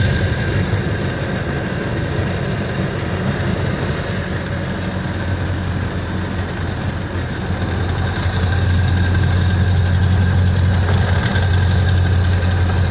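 The 1929 Ford Model A's four-cylinder flathead engine running steadily, heard from inside the car, easing off a little for several seconds and growing louder again about eight seconds in.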